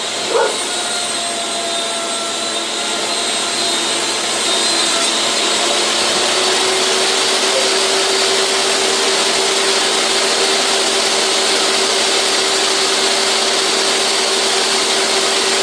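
An electric workshop machine running steadily with a loud rushing noise, getting louder about four seconds in as a steady hum settles in. There is a short sharp sound about half a second in.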